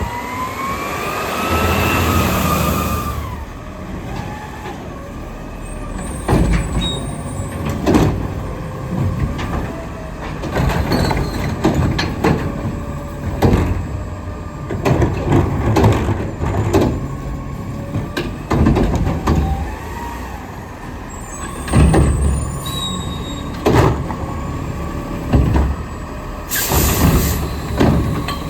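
Diesel Autocar garbage truck with a McNeilus front loader and Curotto Can at work: the engine revs with a rising hydraulic whine at the start, then many bangs and clatters of carts and the can's arm working, and a sharp air-brake hiss near the end.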